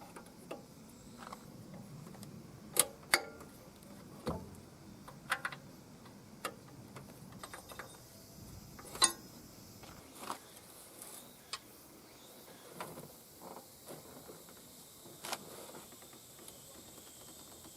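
Scattered metallic clicks and clinks of hand tools and loose metal parts being handled during engine-bay work, irregular and a few seconds apart, the loudest about three and nine seconds in.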